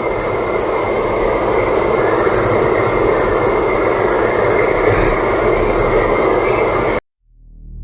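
Steady road and engine noise of a small car heard from inside the cabin while driving on the highway. It cuts off suddenly about seven seconds in, and a low droning music bed fades in near the end.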